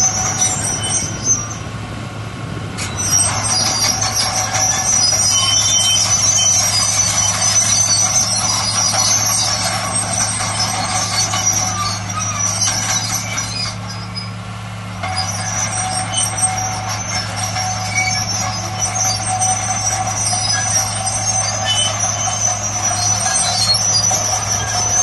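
Bulldozer's diesel engine running with a steady low drone, over high metallic squealing from its steel crawler tracks. The squeal drops away briefly twice, about two seconds in and again around fourteen seconds in.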